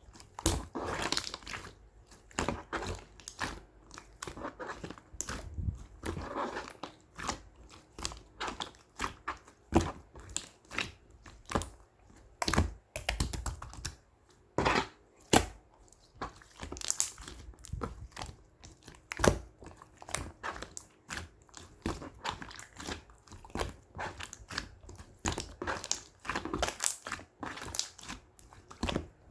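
Pink slime being squished and worked by hand, making irregular sticky pops and clicks, a few a second.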